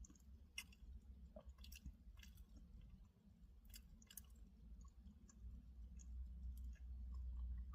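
Near silence: faint scattered small clicks and rustles over a low hum, with the low rumble growing slightly louder about two-thirds of the way through.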